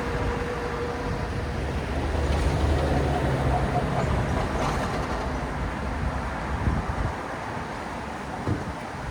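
City road traffic: a steady rumble of cars and buses driving past. It grows louder for a few seconds from about two seconds in as a vehicle passes close, then eases off.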